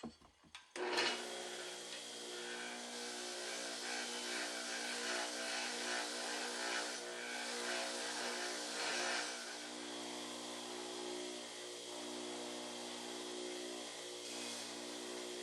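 Electric power tool switched on about a second in, then running steadily with a constant hum and hiss.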